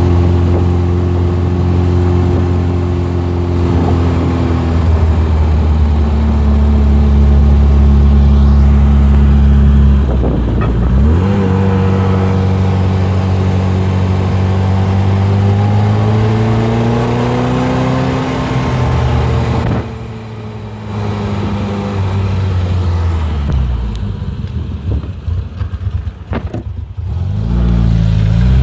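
1969 Triumph Spitfire's 1296 cc four-cylinder engine pulling, heard from inside the cabin. Its note climbs as the car accelerates, drops sharply about ten seconds in at a gear change and climbs again. It falls and rises once more near the end.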